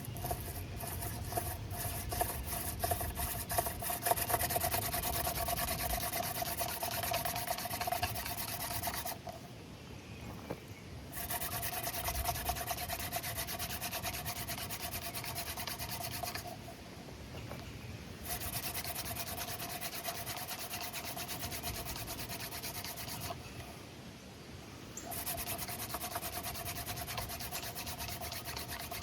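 Dogfennel hand-drill spindle spun between the palms on a pine fireboard: a steady dry rubbing with a faint squeal. It comes in four runs, the first about nine seconds and the others about five, with short pauses between them.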